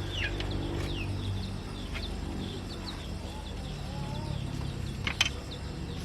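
Small birds chirping repeatedly and chickens clucking over a steady low hum, with a sharp click about five seconds in.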